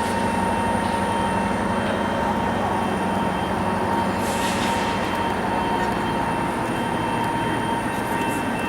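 Standing passenger train running, a steady mechanical drone with a constant hum. A brief hiss comes about four and a half seconds in.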